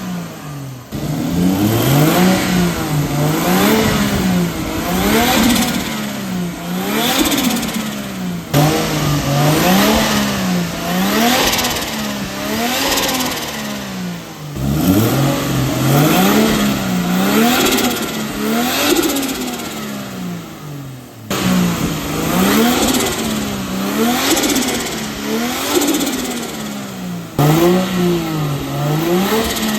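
Turbocharged car engine revved in quick repeated throttle blips, about one a second, its pitch rising and falling with each. The sound breaks off abruptly and resumes about every six to seven seconds as different pipe setups on the turbo are tried.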